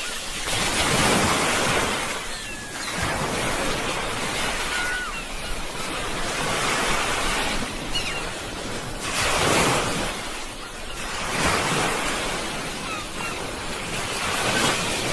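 Sea waves breaking and washing on a shore, a steady rush of surf that swells and eases every few seconds. A few faint short chirps sound over it.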